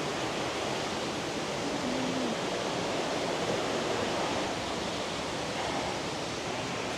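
Steady rush of a waterfall, falling water.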